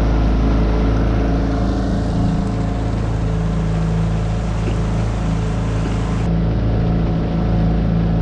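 Tohatsu 9.8 hp four-stroke outboard motor running steadily at low cruising speed, with water rushing along the hull.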